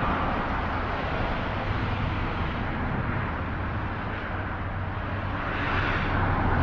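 Steady running noise of a vehicle engine, with a constant low hum, growing slightly louder near the end.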